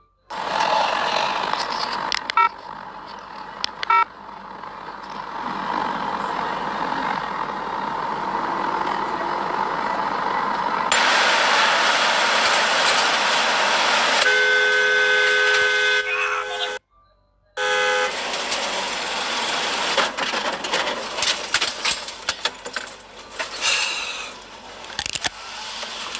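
Road and traffic noise from dashcam clips, with a car horn sounding steadily for about two seconds a little past the middle.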